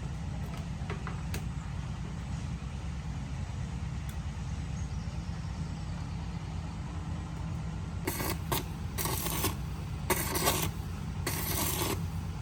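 A steady low machine hum, with repeated loud scraping bursts starting about eight seconds in.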